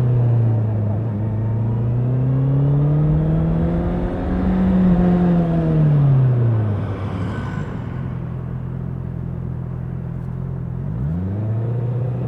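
Honda CBR650R's inline-four engine revving: the pitch climbs slowly to a peak about halfway through, drops back to a steady idle, and lifts again near the end.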